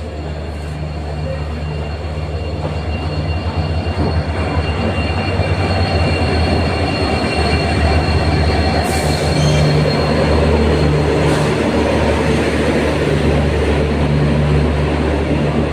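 Train running on the rails with a steady low rumble that grows louder over the first several seconds, and a thin, steady high squeal of wheels on rail through the first half.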